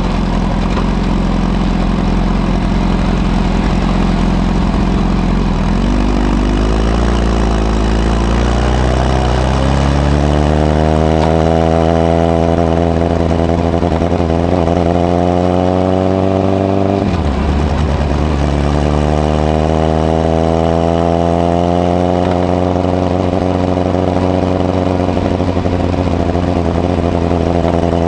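Honda CBR1000RR SC57's inline-four engine, heard through a modified Moriwaki muffler with the baffle fitted, running steadily and then gathering revs under acceleration. Its pitch climbs, drops sharply with an upshift about 17 seconds in, then climbs again and holds steady.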